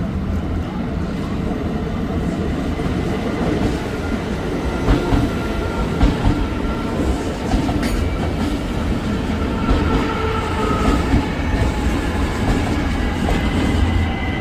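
Steady low rumble of a moving passenger vehicle heard from inside. Scattered light clicks and faint whining tones run through it.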